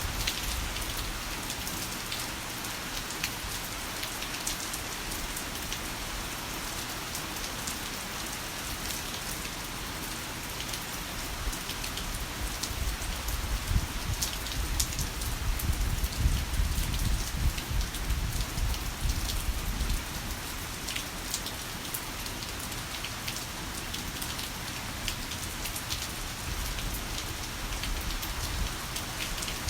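Heavy rain falling steadily, with sharp individual drop splats over the hiss. A low rumble, rolling thunder, swells and fades in the middle.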